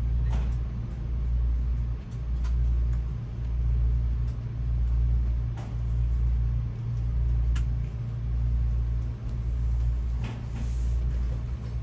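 Low rumble inside a Kintetsu Hinotori limited-express train, swelling and dipping about once a second, with a few faint clicks.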